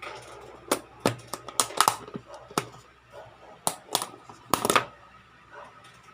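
Irregular light clicks and knocks in a small room, with a quick cluster of them a little before five seconds in.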